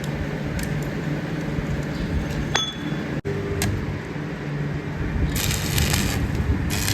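Factory machinery running with a steady low hum while metal parts clink, one clink ringing briefly about two and a half seconds in. Near the end come two bursts of harsh hissing noise.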